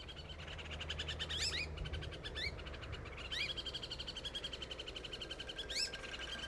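White-whiskered laughingthrush giving urgent alarm calls: a fast rattling series of short notes, broken several times by sharply rising call notes. This is the alarm the bird gives at an intruder near its nestlings.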